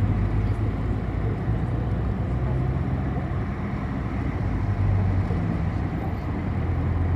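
City bus running, heard from inside the passenger cabin: a steady low engine drone with road noise.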